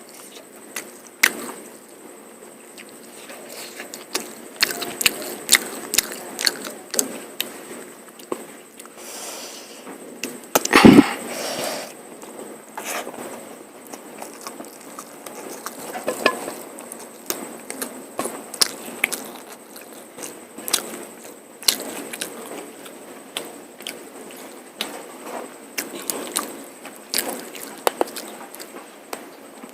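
Close-miked eating of mutton curry and polao rice: irregular wet chewing, lip smacks and sharp clicks throughout, with one louder burst about eleven seconds in.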